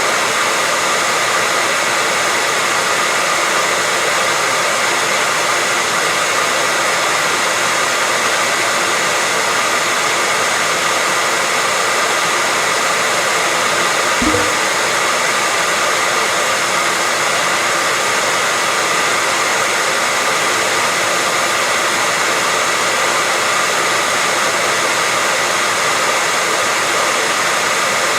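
Electric hair dryer running steadily, an even whooshing blow with a steady high whine in it, used as white noise to lull a baby to sleep. A single brief low knock about halfway through.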